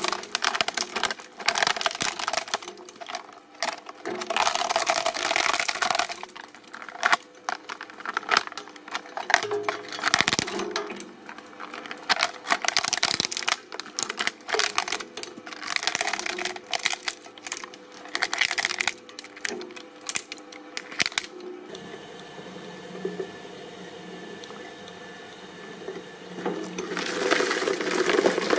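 Industrial shredder crushing and tearing material, a dense run of irregular cracks and crunches. About two-thirds of the way in it drops to a quieter steady running with little being broken, and the crunching starts again near the end.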